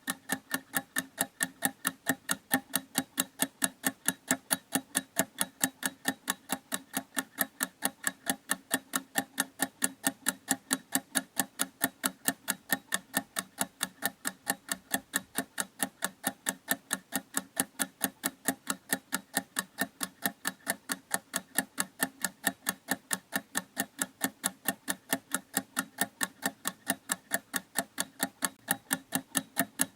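A clock ticking steadily, with quick, even ticks several times a second and no change in pace or loudness.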